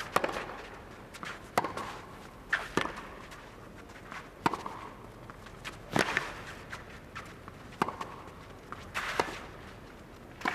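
A tennis baseline rally on a clay court: racket strings striking the ball about every one and a half seconds, the hits alternating between the two players, with faint shoe scuffs on the clay between shots.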